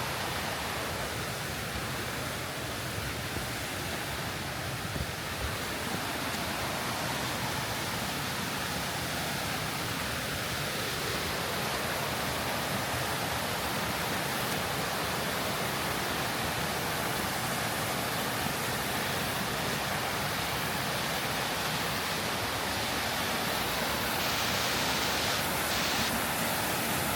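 Steady rushing of falling water, growing a little louder near the end.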